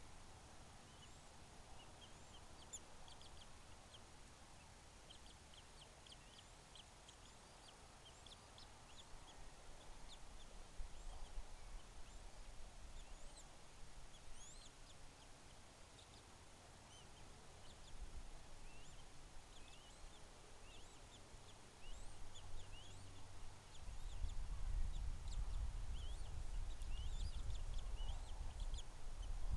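Many short, high bird chirps, scattered irregularly. About 22 seconds in, a low rumble sets in on the microphone and grows louder, becoming the loudest sound near the end.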